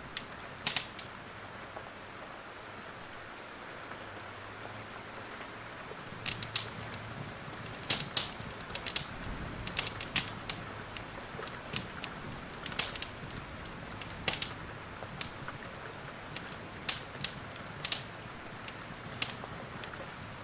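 Steady rain hiss with irregular sharp crackles and pops from a wood fire burning in a fireplace, a few clicks a second at their busiest.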